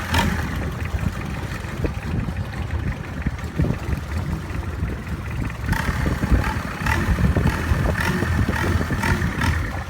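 Long-tail boat engine running, growing rougher and brighter a little over halfway through.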